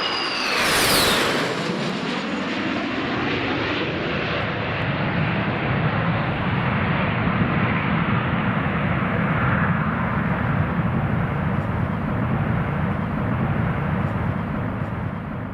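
Boeing 737 BBJ's CFM56-7B turbofans at takeoff power. A high fan whine drops in pitch as the jet passes about a second in, then gives way to a steady jet roar with a deep rumble.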